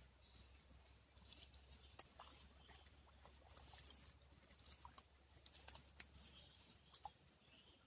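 Near silence: faint outdoor ambience with a low hum and a few scattered faint clicks.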